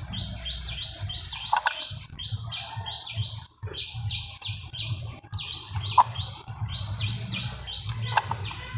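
A bird chirping over and over, about three short high chirps a second, with a few sharp clicks in between.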